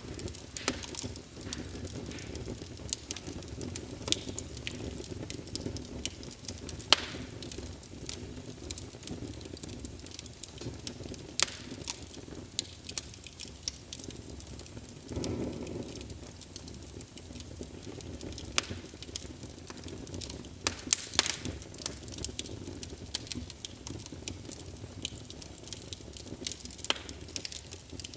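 Wood fire in a fireplace crackling, with sharp pops at irregular intervals over a steady low hiss of burning. The hiss swells briefly about halfway through.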